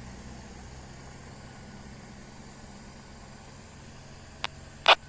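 Heavy truck's diesel engine idling steadily with a low hum. Near the end come a faint click and then a short, sharp, loud burst.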